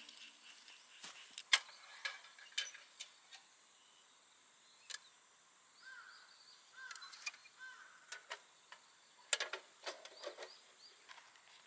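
Quiet outdoor background with scattered sharp clicks and knocks, and a few faint chirps in the middle.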